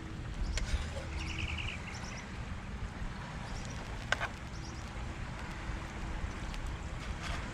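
Outdoor ambience: a steady low rumble with a small bird chirping in short quick runs of notes, mostly in the first two seconds, and a single sharp click about four seconds in.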